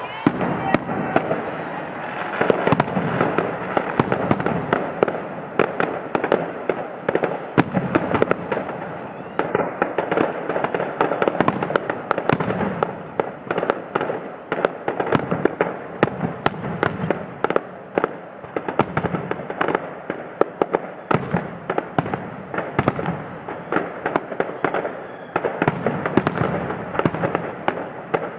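Fireworks display in full swing: a continuous rapid barrage of sharp bangs and crackling, many reports a second, with no let-up.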